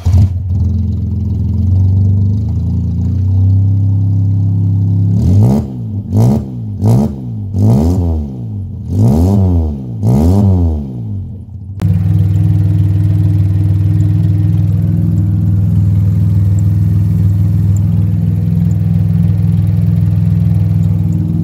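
Geo Metro's straight-piped 1.0-litre three-cylinder engine idling, revved in about six quick blips that rise and fall between about five and eleven seconds in, then settling back to a steady idle.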